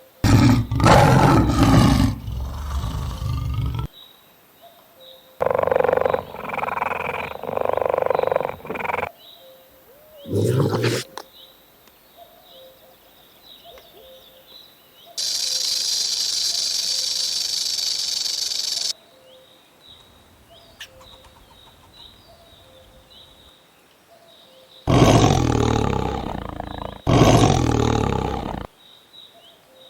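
Tiger roaring in several long, loud bouts, with quieter gaps between them. A steady hiss of about four seconds comes midway.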